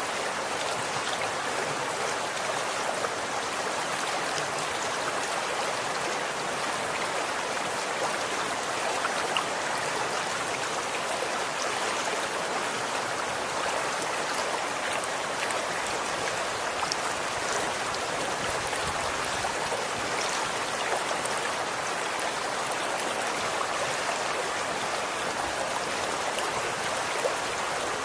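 Running water, flowing and splashing steadily, with a dense patter of small splashes throughout.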